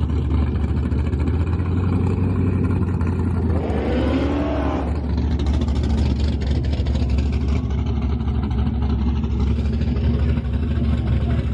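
A car engine running loudly and steadily, with a brief rise and fall in pitch about four seconds in.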